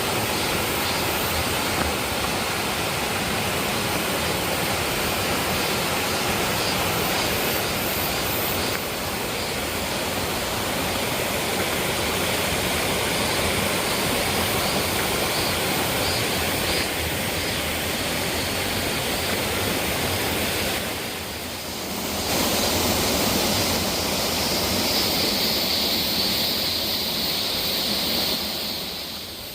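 Waterfall: a steady, loud rush of falling water. The sound shifts slightly about nine seconds in and dips briefly a little after twenty seconds.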